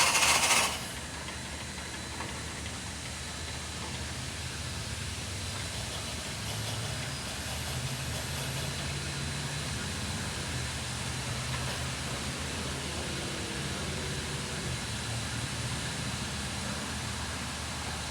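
Coal-fired narrow-gauge steam locomotive: a loud hiss of steam that cuts off suddenly about a second in, followed by a steady low hum.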